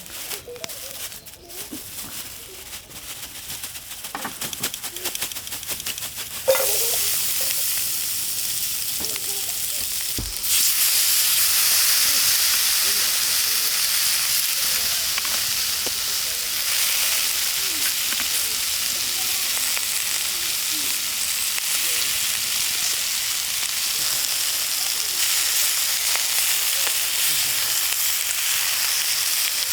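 Steak sizzling in a hot pan over a campfire: the sizzle starts suddenly about six seconds in and gets louder around ten seconds in, then holds steady. Before it starts there are only light crackles and clicks.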